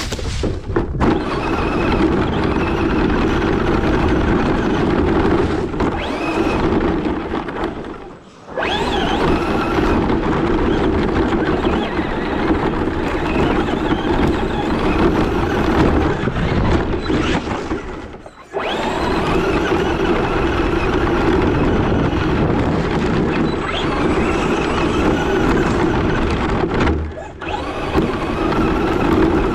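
Electric RC truck driving hard: motor whine and tyre noise, with faint rising whines as it speeds up. The sound breaks off briefly three times.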